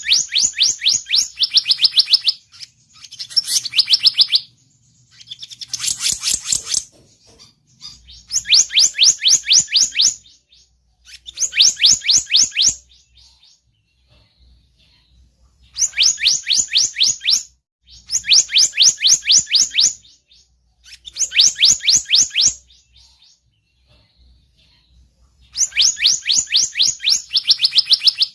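Lure-call recording of the selendang biru bird: bursts of about two seconds of rapid, high chirps, each burst stepping down a little in pitch, repeated every few seconds with short pauses between.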